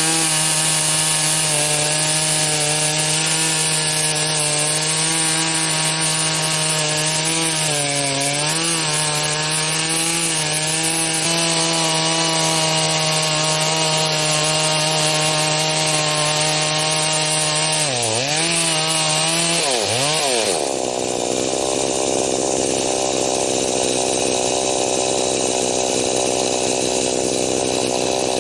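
Poulan 4620 two-stroke chainsaw with a 20-inch bar running at high throttle while cutting a stump. Its engine note holds steady but dips in pitch briefly about a third of the way in and twice more near two-thirds, then turns coarser and noisier for the rest.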